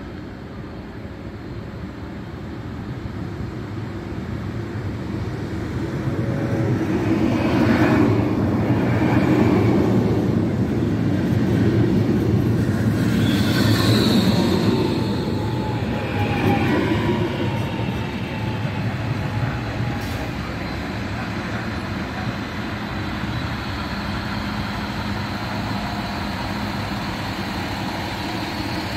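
Trains moving through a station. The rolling noise builds to a loud stretch in the middle as a double-deck electric train passes close by, with wheel squeal and a few falling tones. It then settles into the steady running of ALn 668 diesel railcars rolling past on the far track.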